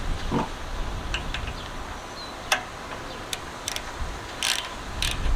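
A handful of separate sharp metallic clicks and taps from hand tools being worked on the small engine, the loudest about halfway through and a brief scrape near the end, over low wind rumble on the microphone.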